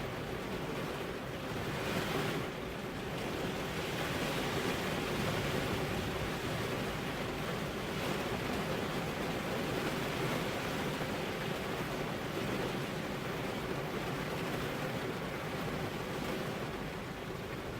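Steady rain falling, an even hiss of noise with a slight swell about two seconds in.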